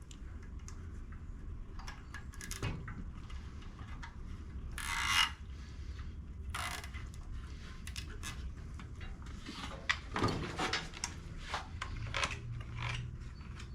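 Toro Recycler push mower engine, with its broken connecting rod removed and the blade brake held off, being spun over. It makes irregular ratcheting clicks and short scraping bursts like a toy being wound up, a noise that seems to come from the top of the engine.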